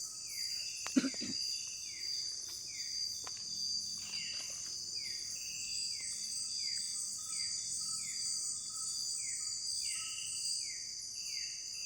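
Night insect chorus of crickets, a steady high-pitched trilling, with a short falling call repeating about twice a second over it. A brief knock sounds about a second in.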